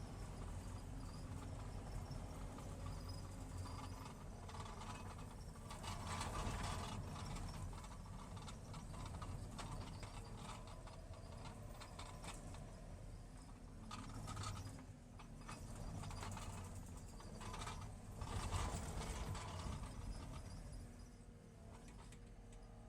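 Ratchet tie-down strap being worked, heard as faint bursts of clicking and rattling several times over a low steady rumble.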